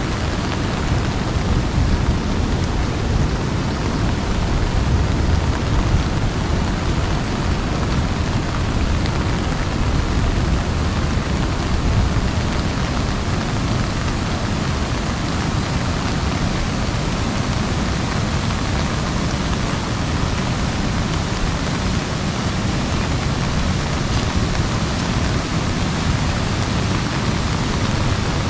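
Steady rain falling on an umbrella overhead: a dense, even hiss with a strong low rumble, unchanging throughout.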